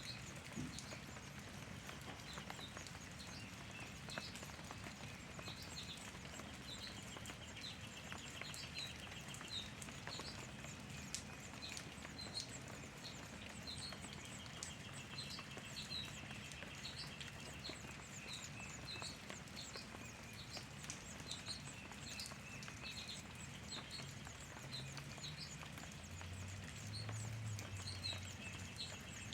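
Small birds chirping: short, high chirps about once a second, with stretches of rapid trilling a few seconds long, over steady outdoor hiss.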